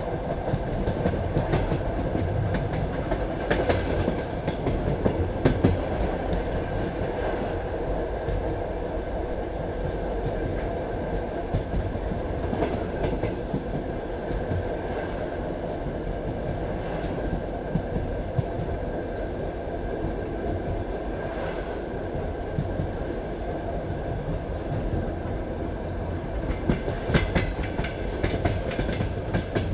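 Passenger railway carriage running on the track, its wheels giving a steady rumble with clickety-clack over the rail joints. Sharper clacks come now and then, and several close together near the end.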